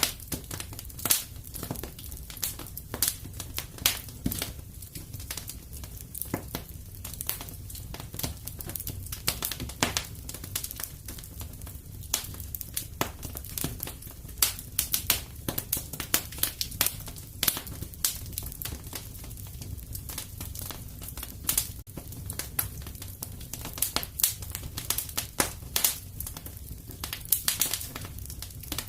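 Wood fire crackling in a fireplace: irregular sharp pops and snaps, some louder than others, over a steady low hum.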